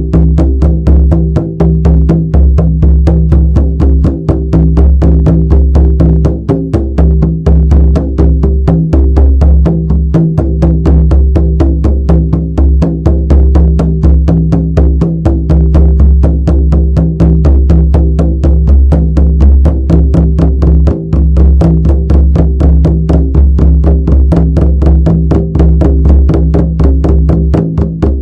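Shamanic frame drum beaten in a fast, even rhythm, each stroke leaving a deep booming resonance that rings on under the next.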